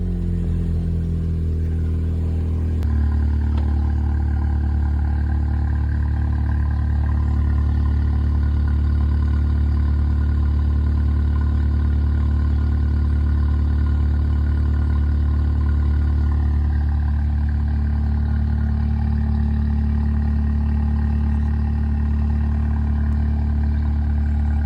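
Volkswagen Golf R's turbocharged four-cylinder engine idling just after a cold start. About three seconds in its note steps down and gets slightly louder, then it holds a steady idle.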